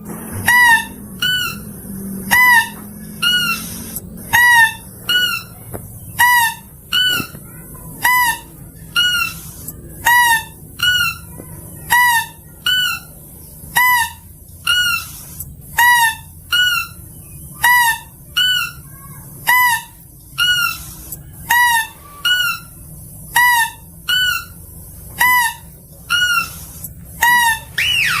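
Mouse-deer (kancil) lure recording: short pitched calls repeated about three every two seconds, each a quick falling note, alternating between a lower and a higher call, over a steady hiss. A longer rising call comes near the end.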